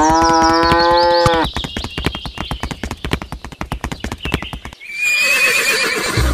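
Horse whinny sound effect, a rising call held for over a second, followed by about three seconds of clip-clopping hoofbeats. Near the end comes a high, warbling shimmer of a sound effect.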